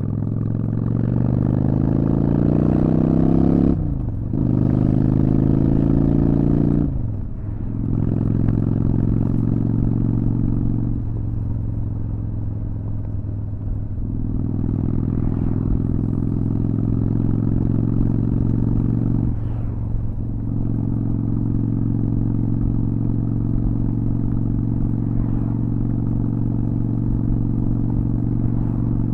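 Honda Shadow VT600 V-twin motorcycle engine under way: it revs up, shifts up a gear about four seconds in and again about seven seconds in, then holds a steady cruise. The throttle eases off briefly twice.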